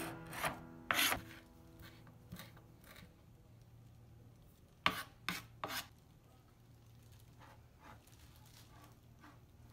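Kitchen knife chopping and scraping green chillies and coriander on a plastic cutting board. Scattered sharp taps of the blade, with three quick ones about five seconds in, and a soft rasp of scraping between them.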